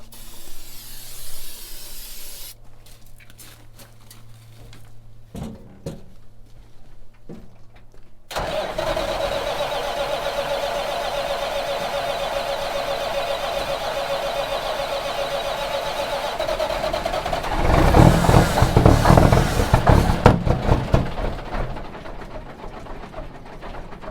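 Big Cam 400 Cummins inline-six diesel in a 1976 Kenworth W900A being cranked on starting fluid. About eight seconds in the starter begins a steady whine for about nine seconds, then the engine fires loudly for a couple of seconds and dies away without catching.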